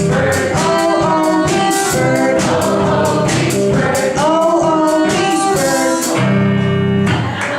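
Small live band (singing, electric guitar, saxophone and drums) playing the last bars of a song, with sung lines over a steady drum beat, ending on a long held chord about six seconds in that cuts off just before the end.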